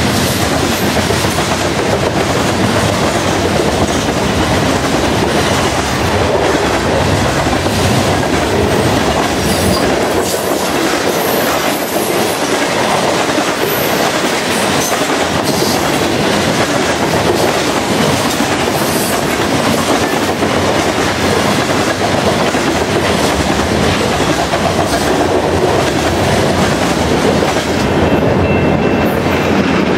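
Freight train of covered grain hopper cars rolling past close by: a loud, steady rush of steel wheels on the rails that thins out near the end as the last car clears.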